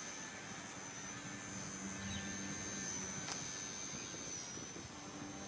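Small electric RC helicopter (XK K110S) in flight: a steady high motor whine over a low rotor hum, with the whine's pitch wavering and dipping briefly near the end as the throttle shifts. An even hiss runs underneath.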